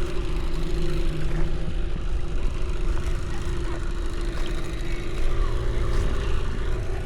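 An engine running steadily, with a constant hum over a low rumble.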